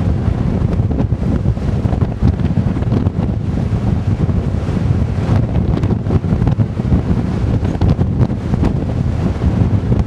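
Strong typhoon wind buffeting the microphone in a dense, constant low rumble that flutters in loudness, with the surf crashing beneath it.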